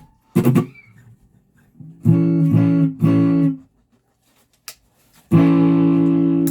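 Guitar being strummed: a brief muted scratch, then three short chords cut off quickly about two seconds in, and a chord strummed near the end and left ringing.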